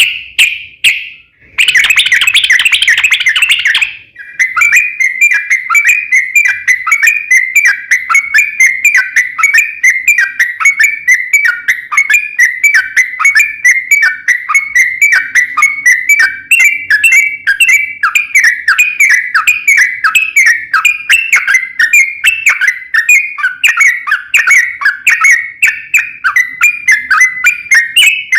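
Yellow-vented bulbul (trucuk) song: a short call, then about two seconds of harsh chatter, then a long, fast run of repeated chirping notes, several a second, the long rolling 'ropel' phrase.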